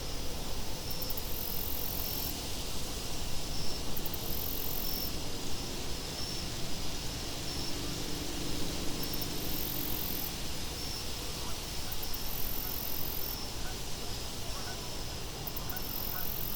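Steady wind noise with insects chirping over it: a very high trill that pulses on and off about every two and a half seconds, and a fainter, even chirping below it.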